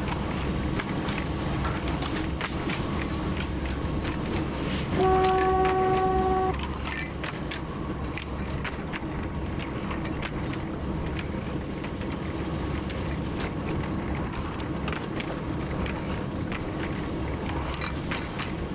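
TU7 narrow-gauge diesel locomotive running along the track, its engine droning steadily under a regular clicking of wheels over rail joints. About five seconds in, the locomotive's horn sounds one steady blast of about a second and a half, the loudest sound.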